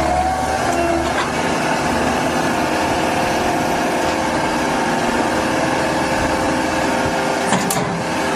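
A machine's engine running steadily, with a short sharp click about three quarters of the way through.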